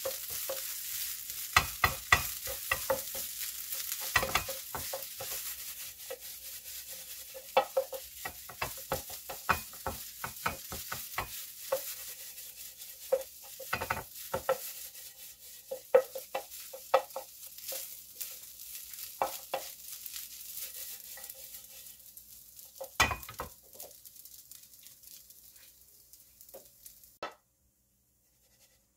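Egg fried rice sizzling in a nonstick frying pan while a wooden spatula stirs and scrapes it, with frequent sharp knocks of the spatula on the pan. The sizzle fades near the end and then stops.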